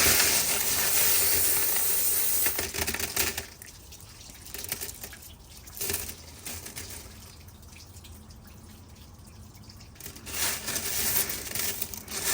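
Tap water running into a sink: a spell of about three seconds at the start and another near the end, with a few light clicks in the quieter stretch between.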